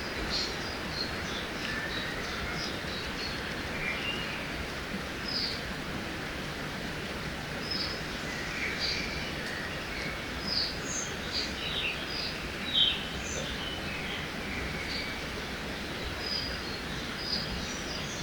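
Forest ambience by a river: a steady rushing background with many small birds chirping and calling in short notes throughout, one call standing out louder about thirteen seconds in.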